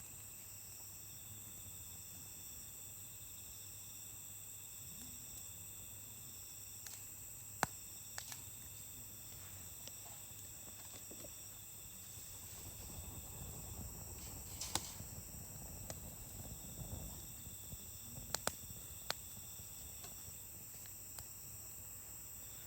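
Wood campfire burning with occasional sharp crackling pops, over a steady high-pitched insect chorus.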